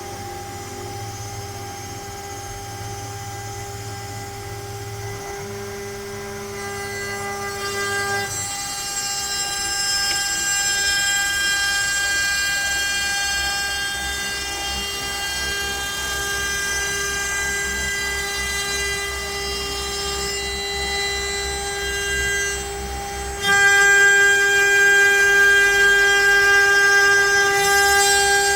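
CNC router spindle running with a steady whine as it cuts pine, its low machine rumble shifting as the axes move. The sound steps up in loudness about 23 seconds in.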